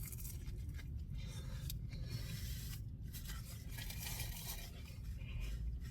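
Quiet, irregular rustling and crunching as a fried chicken and hash brown croissant sandwich is handled and eaten.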